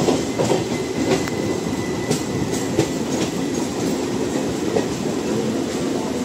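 Doon Express passenger coaches running past close by, their wheels clattering over the rail joints in a steady rumble with irregular sharp clicks. A faint thin squeal runs for a couple of seconds from about a second in.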